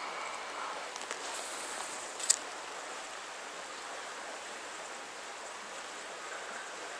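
Stream water flowing with a steady rush. A few light clicks sound in the first couple of seconds, with one sharp click, the loudest sound, a little over two seconds in.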